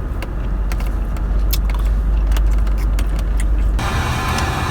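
Steady low rumble of a car cabin with scattered light clicks and rattles. Near the end the sound changes abruptly to a brighter hiss.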